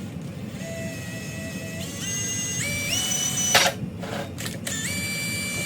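Power drill turning a 6-inch bi-metal hole saw into a workpiece: the motor whine steps up in pitch several times as the speed changes, over a steady grinding, with a few sharp knocks around the middle.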